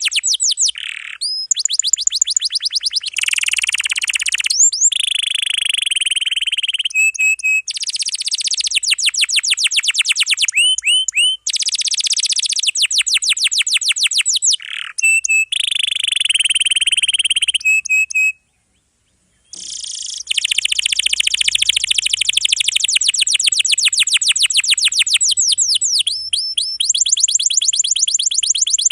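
Domestic canary singing a continuous song of long rolls: fast runs of the same note repeated many times, switching to a new trill every few seconds. The song breaks off for about a second about two-thirds through.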